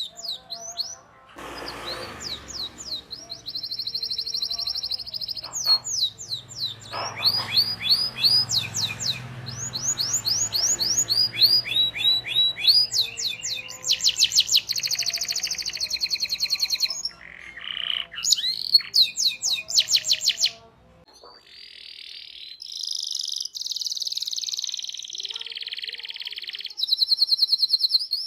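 Domestic canary singing a long, fast song of rapid repeated chirps and rolling trills, changing phrase every second or two. A low background hum runs under the song until about two-thirds of the way through, then drops away.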